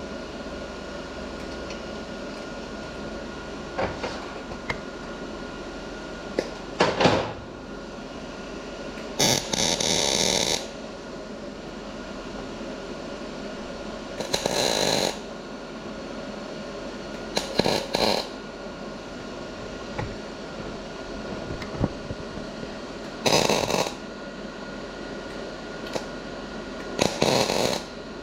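Gas-shielded MIG welder laying short tack welds on a broken chainsaw muffler: about six crackling bursts, each half a second to a second and a half long, separated by pauses filled with a steady hum.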